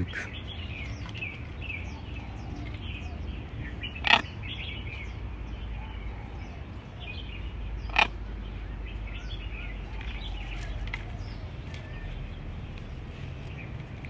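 Birds chirping over and over, with short high chirps throughout against a low steady background rumble. Two loud, short, sharp sounds break in, about four seconds in and again about eight seconds in.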